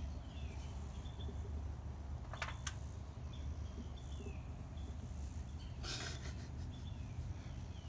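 Quiet outdoor background with a bird giving short, faint, falling chirps about once a second over a low steady rumble. Two sharp clicks come about two and a half seconds in, and a brief rustle about six seconds in.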